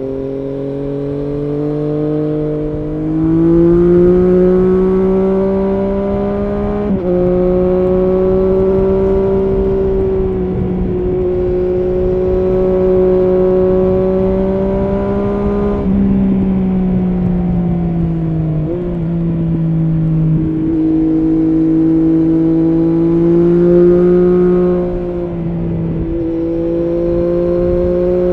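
Triumph Street Triple S's inline three-cylinder engine running through an SC-Project SC1-R slip-on exhaust with its dB-killer fitted, under way. Revs rise and fall with several gear changes, between stretches of steady running.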